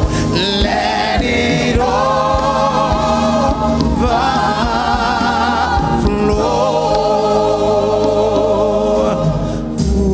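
Gospel choir singing with vibrato over a band with drums, in a live worship song.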